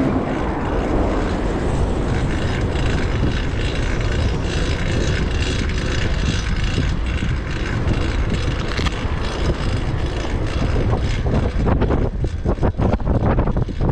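Wind rushing over the microphone, with road noise, while riding a fixed-gear bicycle. The rush breaks into choppy gusts near the end.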